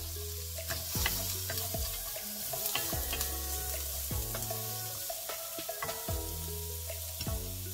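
Julienned carrots sizzling in hot oil in a stainless wok while being stirred with a wooden spatula, with scattered sharp ticks, under background music with held bass notes.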